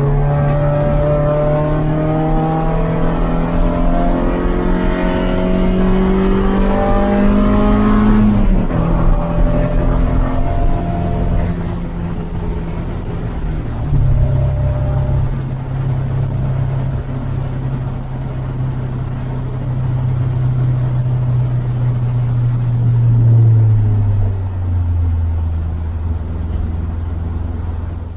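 Honda Prelude race car's H23 2.3-litre four-cylinder engine heard from inside the cabin, running hard on track. The engine note climbs steadily for about eight seconds, drops, later holds steady, and falls away to a lower pitch near the end.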